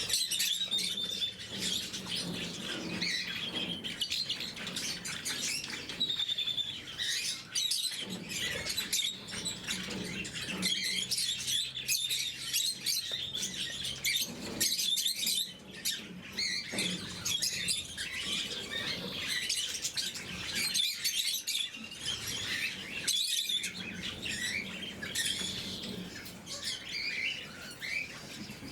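A group of lovebirds chirping and chattering, many overlapping high calls without a break.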